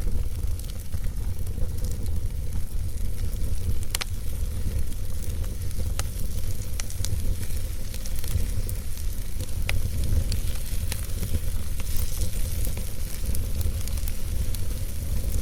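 Logs burning in a fireplace, crackling with scattered sharp pops over a steady hiss and a low rumble.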